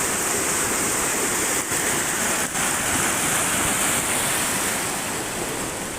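Steady rush of the Porter Brook's fast-flowing floodwater.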